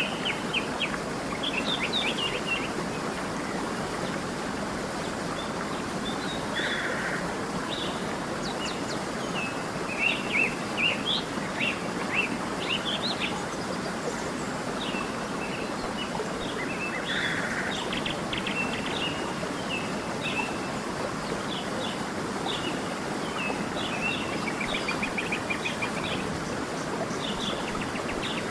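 Small songbirds chirping and singing in short quick phrases, with a fast trill near the end, over the steady rush of running water.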